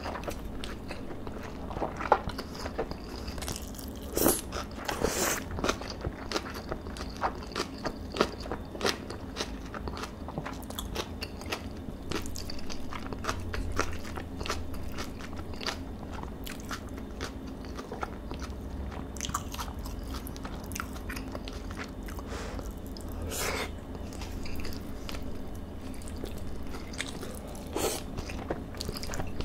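A person chewing a mouthful of marinated beef bulgogi and rice close to the microphone: a steady run of soft, wet mouth smacks and clicks, with a few sharper clicks in the first several seconds.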